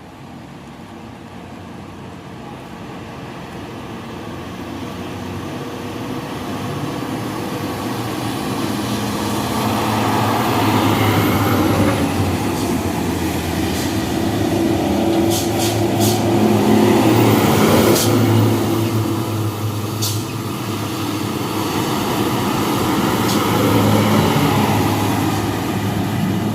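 Heavy diesel dump trucks approaching and passing one after another. The engine drone grows steadily louder over about ten seconds, then swells three times as successive trucks go by, with a few short sharp clicks in the middle.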